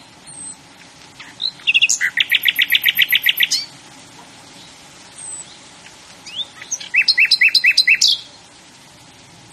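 A songbird singing two phrases of rapid repeated notes, about seven notes a second, each lasting about two seconds, with faint short high chirps between them.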